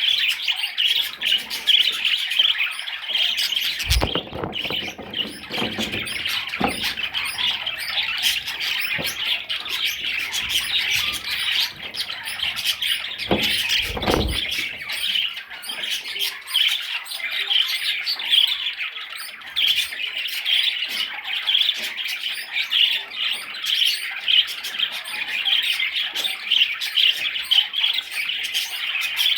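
Budgerigar chattering and warbling without pause, a dense run of quick chirps and squawks. There are a few dull thumps about four seconds in and again near the middle.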